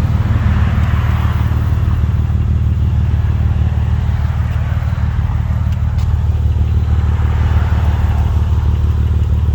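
2004 Acura TL's 3.2-litre J32A3 V6 idling steadily through an aftermarket Invidia exhaust with its catalytic converters still in place, giving a smooth, pretty quiet note.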